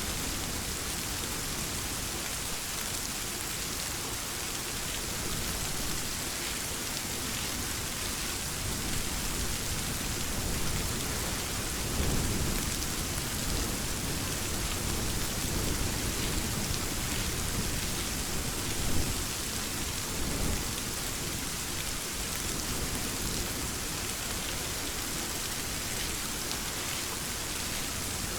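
Steady heavy rain falling on a surface, with thunder rolling in low rumbles through the middle and one sharper peak of thunder about two thirds of the way in.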